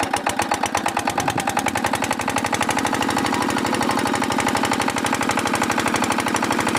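Marshal 8 HP single-cylinder diesel pumping-set engine running, its exhaust giving rapid, even chugging beats. The beats quicken over about the first second as the engine picks up speed, then hold steady.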